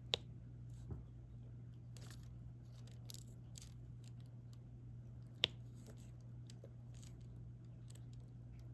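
Faint clicking and scratching of a diamond-painting stylus picking up resin drills and pressing them onto the sticky canvas, with two sharp clicks, about a fifth of a second in and about five and a half seconds in, over a steady low hum.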